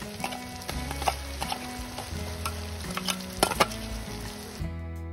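Onion, tomato and spice paste frying in oil in a kadai, sizzling steadily while a spatula stirs and knocks against the pan a few times. The sizzling cuts off abruptly near the end.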